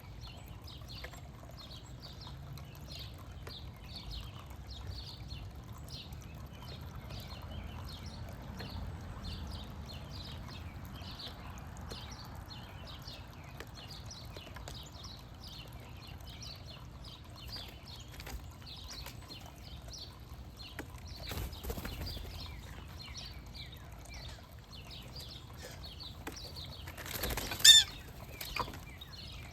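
Small bird chirping repeatedly, about two or three short high chirps a second, with a single much louder harsh call near the end.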